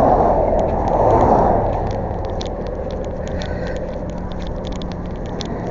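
Vehicle engine noise: a steady low rumble, louder in the first two seconds as of a vehicle going by, with scattered light clicks throughout.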